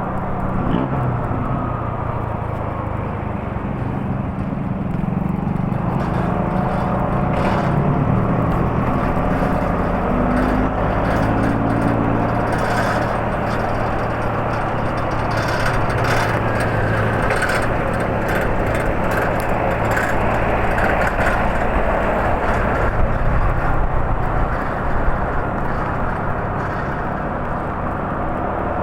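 Steady outdoor rumble with a low mechanical hum, like vehicle engines running, and faint wavering tones above it.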